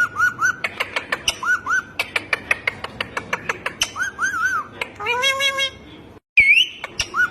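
Cartoonish animal-sound track: runs of three or four quick bird-like chirps over a fast train of sharp clicks, with a meow-like call about five seconds in. The sound cuts out just after six seconds and comes back with a rising whistle.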